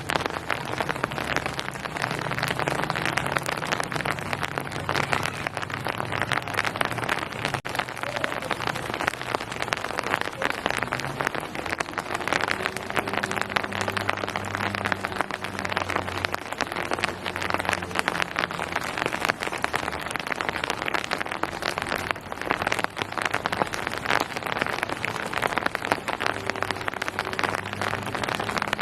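Steady rain falling, a dense patter of countless drops hitting surfaces with no letup, over a low uneven hum.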